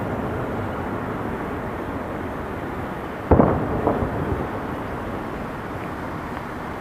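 Two booms of firework shells bursting in the distance, about three seconds in and half a second apart, the first the louder, with echo trailing after each. Beneath them runs a steady rumble from a Tokyo Monorail train running along its elevated track, fading slightly toward the end.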